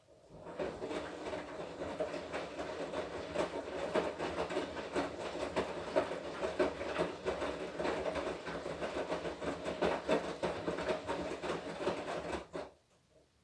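Front-loading-style washing machine drum turning in the wash cycle, tumbling the laundry with a steady run of small knocks. It starts at the very beginning and stops abruptly near the end, as the drum pauses between turns.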